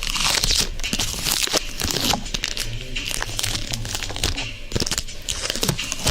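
Close-up crinkling and rubbing right at a 3Dio binaural microphone, in irregular crackly bursts with many small clicks.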